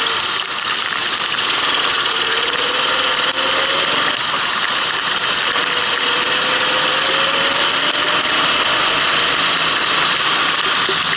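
Kart engine running on track, its pitch climbing slowly twice as the kart accelerates, over a steady loud hiss.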